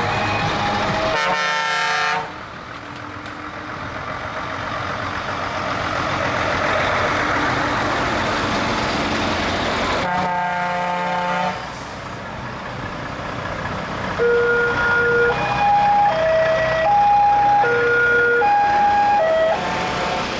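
Truck air horns sound in two long blasts, about ten seconds apart, over the noise of running trucks. For the last few seconds a horn plays a short tune of single notes stepping up and down.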